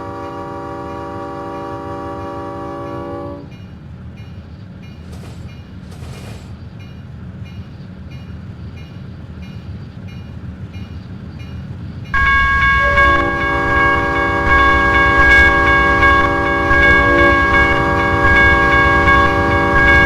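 Union Pacific locomotive's air horn sounding a steady chord for a grade crossing. It breaks off about three seconds in, leaving the rumble of the approaching train, then blows again much louder about twelve seconds in as the locomotive passes close, with a heavy rumble under it.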